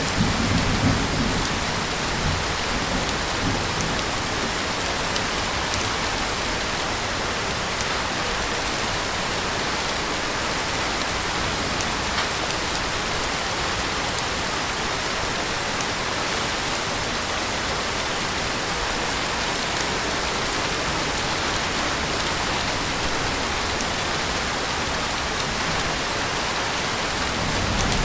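Heavy rain falling steadily in a dense, even hiss. A brief low rumble comes near the start and another near the end.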